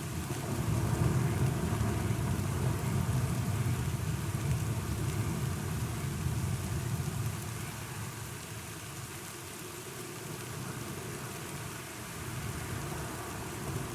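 Steady rain with a low rolling rumble of thunder, strongest in the first half and dying away about halfway through.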